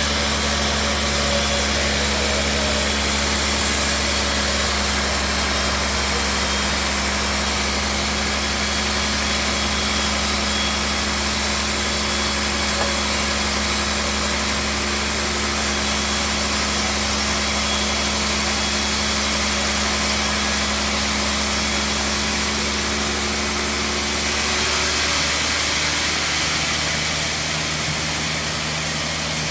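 Sawmill machinery running steadily: a continuous engine-like hum that shifts in pitch about 25 seconds in.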